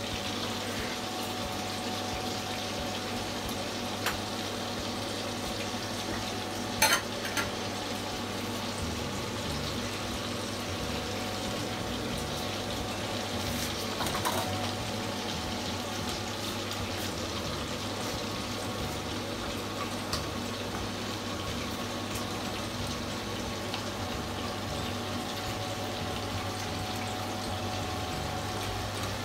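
Meat frying in oil in pans on a gas stove: a steady sizzle, with a few short clinks of a spatula or tongs against the pans.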